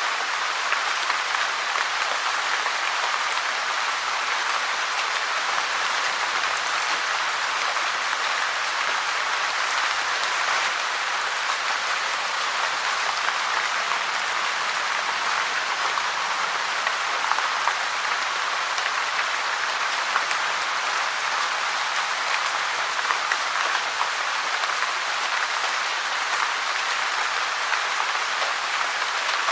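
Steady rain: a dense, even hiss of many small drops pattering, with no let-up or change.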